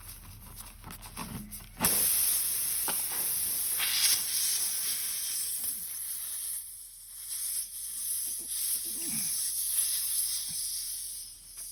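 Compressed air hissing out of a punctured tyre as a string repair plug is pushed into the hole; the hiss starts suddenly about two seconds in and runs on steadily, easing briefly midway.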